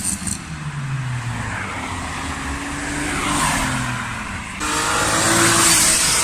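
Modified car engine revving and accelerating away, with the engine note sliding in pitch. About two-thirds of the way in the sound cuts abruptly to another loud car accelerating, loudest near the end.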